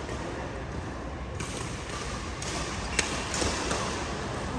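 A badminton racket striking a shuttlecock: one sharp crack about three seconds in, followed by a couple of fainter taps, over steady background noise.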